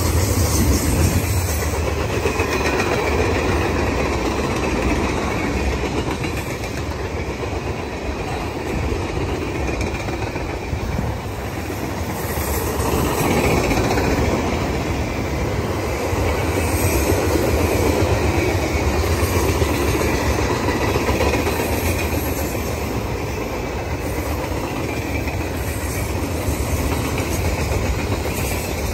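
Freight cars of a passing train rolling by close at hand: a steady, continuous noise of steel wheels running on the rails, swelling and easing a little as the different cars go past.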